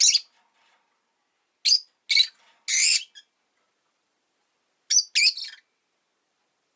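Rosy-faced lovebird chirping: short, sharp, high-pitched calls in little groups. There is one at the start, three between about one and a half and three seconds in (the last one longer), and two more about five seconds in.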